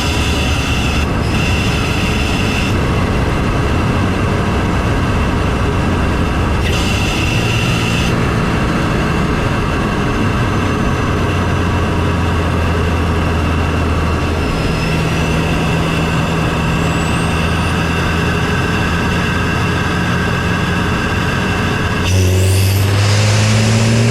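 MK7 Volkswagen GTI's turbocharged 2.0-litre four-cylinder heard from the engine bay through a CTS cold-air intake while driving: a loud, steady intake drone at cruising revs. Twice in the first several seconds a higher hiss joins in briefly, and near the end the revs rise as the car accelerates.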